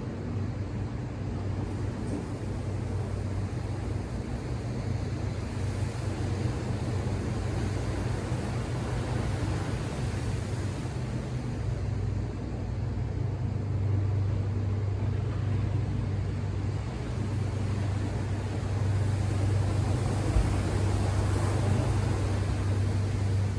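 Ocean surf washing in, the noise swelling and easing every several seconds, over a steady low mechanical hum.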